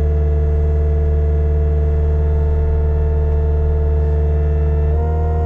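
Caterpillar 299D2 compact track loader's diesel engine running steadily. Its pitch steps up slightly near the end.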